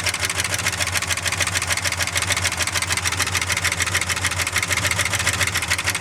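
Ford 390 FE V8 in a 1976 F-250, warmed up and idling steadily through new headers and exhaust, with an even, fast pulsing beat.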